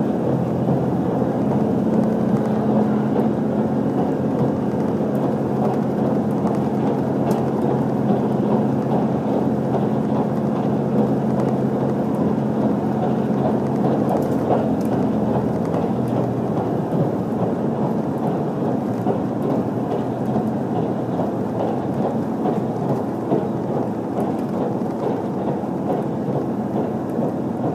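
Running noise inside a JR HC85 series hybrid train at speed: a steady rumble of wheels on rail with a low engine drone, easing slightly in the second half.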